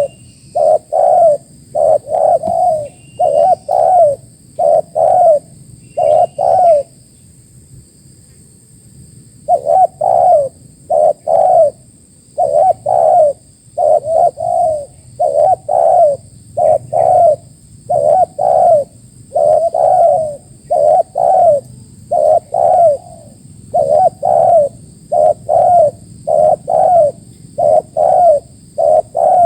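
Spotted dove (tekukur) cooing over and over in rapid short notes, with a pause of about two seconds early on before the cooing resumes.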